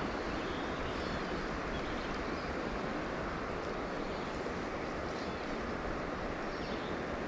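Steady rush of river water flowing over shallow riffles.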